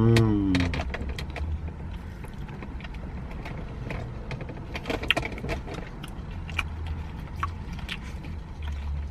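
Steady low hum of an idling car heard inside the cabin, with scattered light clicks and taps of handling throughout. A brief voice with a falling pitch sounds right at the start.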